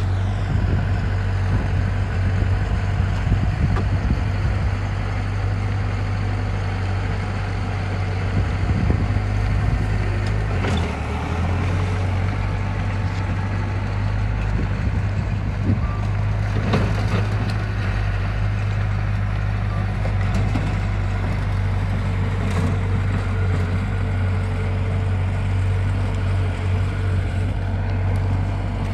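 Diesel engine of heavy construction machinery running steadily with a deep, constant drone, and a few knocks around the middle.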